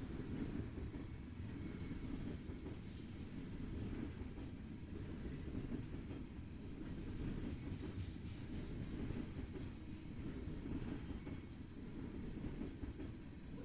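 A train's cars rolling past on the rails, a steady low rumble.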